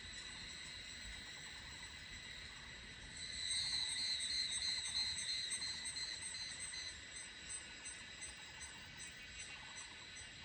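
Yangmingshan evening cicadas (Tanna sozanensis) calling: a steady, high-pitched chorus, with one louder, pulsing call from about three to seven seconds in.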